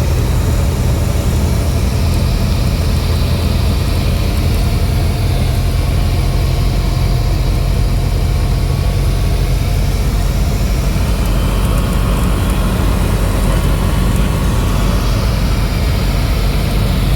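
Cessna 172's piston engine and propeller droning steadily, heard from inside the cabin, with a deep hum under a broad rushing noise.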